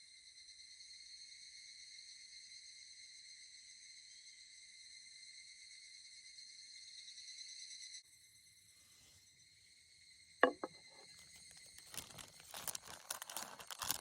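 A steady chorus of night insects trilling at several high pitches cuts off abruptly about eight seconds in. A sharp click follows a couple of seconds later, then an uneven run of clattering and rustling near the end.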